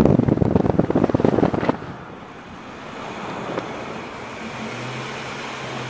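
Ford Mustang GT's V8 through a MagnaFlow exhaust, revving loudly and then dropping off abruptly under two seconds in, leaving a much quieter steady running sound with a low hum.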